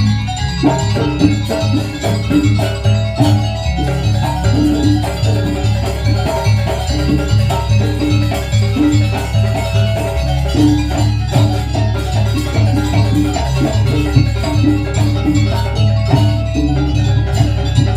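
Live gamelan music for a jaranan dance: metallophones ring a repeating melody of short struck notes over a steady, pulsing low drum beat.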